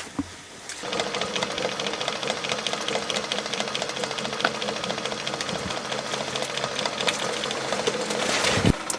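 A small motor running steadily with a fast, even ticking, starting about a second in and cutting off near the end.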